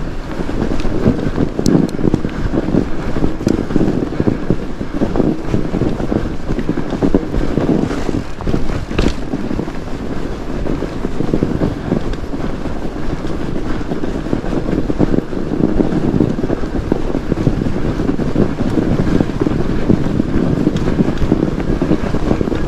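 Wind buffeting the microphone over the steady rumble and crunch of fat bike tyres rolling through snow, with a few faint clicks.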